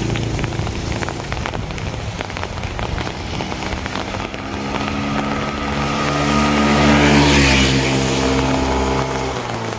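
A motor vehicle passing on a rain-soaked street, its engine hum swelling to a peak about seven and a half seconds in and fading out near the end, while rain patters and drips steadily throughout.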